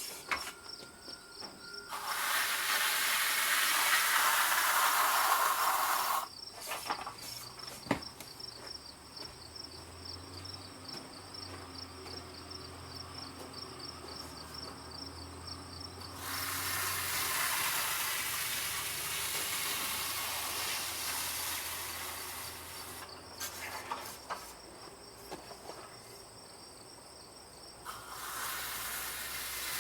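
Insects chirping in a steady, fast-pulsing high trill. Three times it is overlaid by a loud hissing, scraping noise that lasts several seconds each time.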